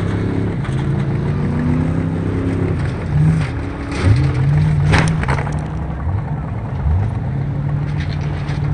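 A race car's engine running hard, its pitch dropping and climbing again several times as the throttle is lifted and reapplied, with a sharp bang about five seconds in.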